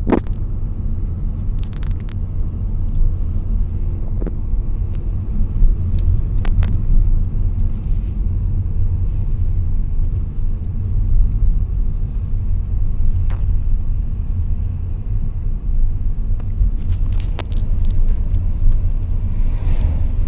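A steady low rumble throughout, with a few brief clicks scattered through it.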